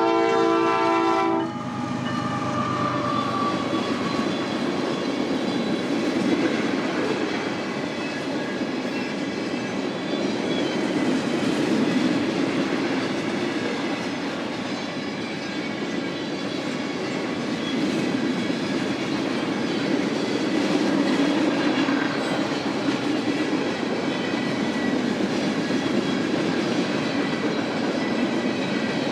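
Freight train horn sounding a held chord that cuts off about a second and a half in. Then the steady rolling noise of a long freight train's cars passing, wheels clicking over the rail joints.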